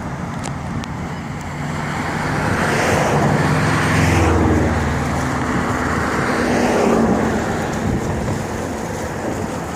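Road traffic passing close by: a steady tyre-and-engine noise with two louder pass-bys, about four and seven seconds in, the first with a low engine hum.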